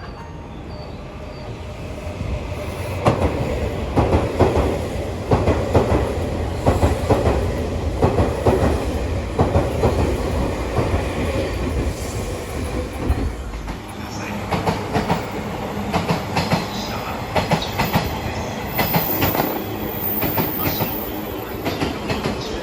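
A train passes at speed, its wheels clattering in a rapid rhythm over the rail joints. The deep rumble drops away about fourteen seconds in, while the clatter goes on.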